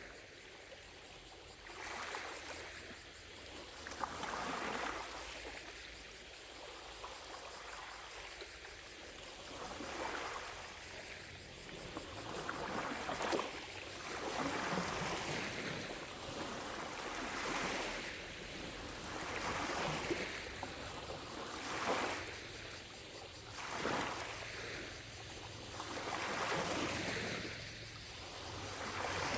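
Small lake waves lapping against the shore, a soft wash every two seconds or so. Faint distant cicadas drone in the background.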